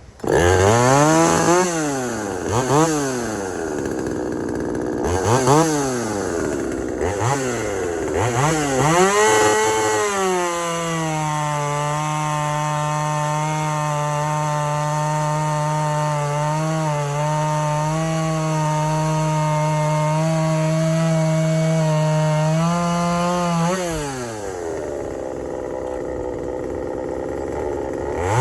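Exhaust boost-ported Craftsman 2.2 36cc two-stroke chainsaw, revved up and down in quick blips several times. It then runs at full throttle under load cutting through pin oak for about thirteen seconds, the pitch held steady and slightly below free revs. Near the end the revs climb as the cut finishes, drop back to idle, and rise again at the very end.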